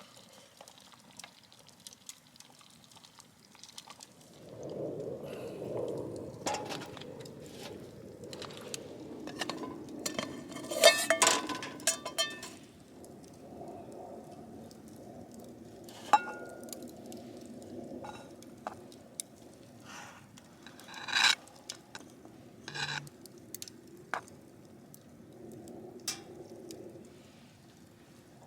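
Cooking in a camp pot: a metal spoon or ladle stirring and scraping, with sharp metal clinks against the pot, loudest in a quick cluster about ten to twelve seconds in.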